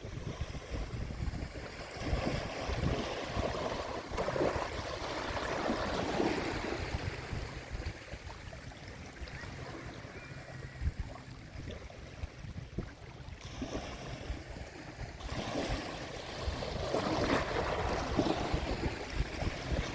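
Sea waves washing onto the shore, the surf swelling and easing, with one surge a few seconds in and another near the end.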